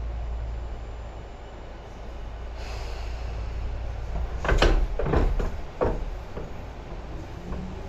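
Tobu 10030 series electric train's low running rumble dying away as it slows, then a brief hiss and three loud knocks about half a second apart, four and a half to six seconds in.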